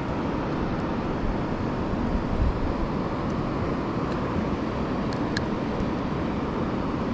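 Steady wind buffeting the camera microphone, a low uneven rumble with hiss above it, with a couple of faint clicks about five seconds in.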